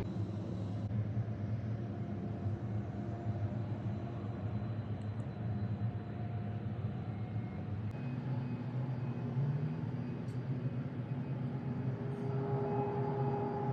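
Jet airliner's engines at takeoff, heard as a steady low rumble with a faint steady tone coming in near the end.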